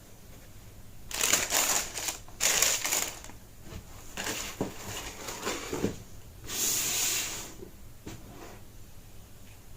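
Sneaker packaging being handled: four bursts of rustling, with a few light knocks and clicks in the third one.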